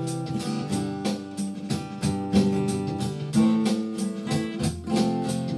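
Instrumental passage of a rock song: a guitar strumming a quick, even rhythm over held chords, with no singing.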